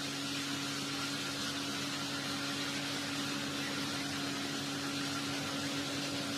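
Steady hiss with a low, steady hum underneath: background noise of the recording, with no voice or music.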